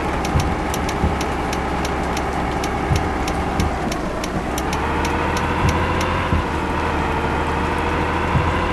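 Vehicle engine running while driving. Its note drops about four seconds in, then climbs back. A few dull thumps come from the road, and a light, fast ticking runs through the first two-thirds.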